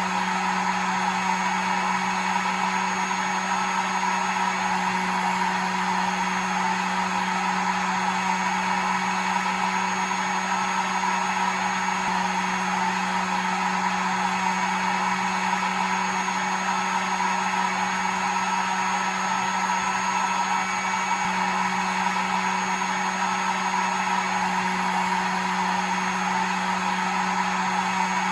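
Electric hair dryer running steadily: a continuous blowing rush of air over a steady motor hum, unchanging throughout.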